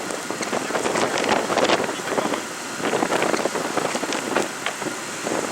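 Blizzard wind buffeting the microphone, a rough steady rush broken by many short irregular crackles.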